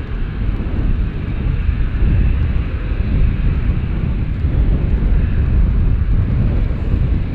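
Airliner engines running as an aircraft moves down the runway, a steady loud rumble with a higher hiss above it.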